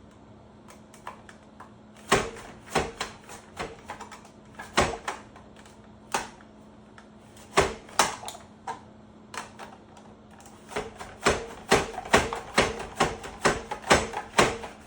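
Carrots being pushed across the blade of a mandoline slicer, each stroke making a sharp clack. The strokes come in irregular runs: they start about two seconds in, stop briefly partway, then come faster near the end.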